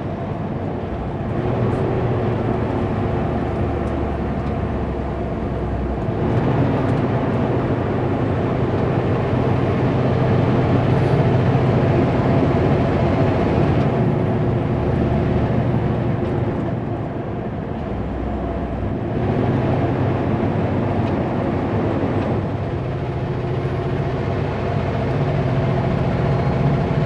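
Kenworth W900L semi truck's diesel engine running under way, heard inside the cab with road noise; its low drone changes pitch a few times.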